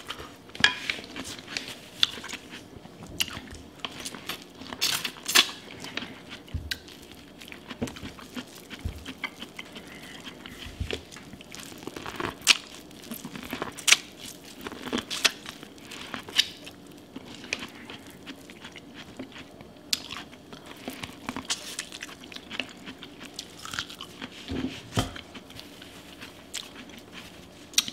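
A person biting and chewing boiled corn on the cob, with irregular sharp crunching clicks throughout.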